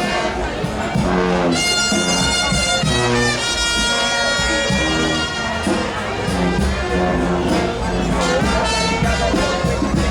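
New Orleans brass band playing live, trumpets and trombones over a steady drum beat, with crowd noise.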